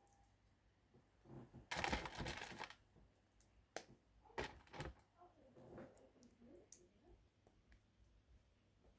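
LEGO pieces being handled: a rustling clatter of about a second as parts are rummaged, then a few single small plastic clicks.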